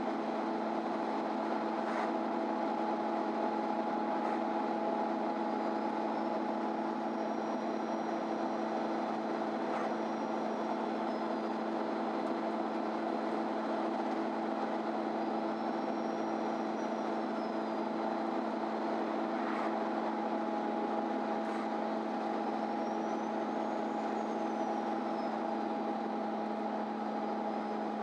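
MAN Lion's City Ü intercity bus heard from inside the passenger cabin: a steady engine drone at an even pitch over road noise. A faint high whistle rises and falls three times, and there are a few brief clicks and rattles.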